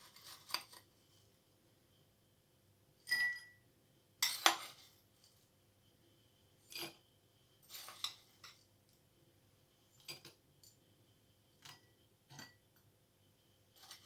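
A spoon clinking and tapping against glass dessert cups: about nine separate clinks spread out, one just after three seconds in ringing briefly.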